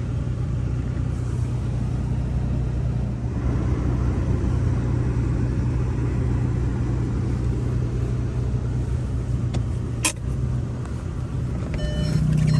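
APR-tuned Volkswagen Passat R-Line's engine running low and steady as the car is driven through deep snow, with one sharp click about ten seconds in. The engine grows louder near the end.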